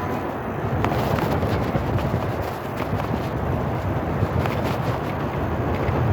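Steady low rumble of bicycle riding noise, tyres and wind on the microphone, with scattered small clicks and knocks from the bike.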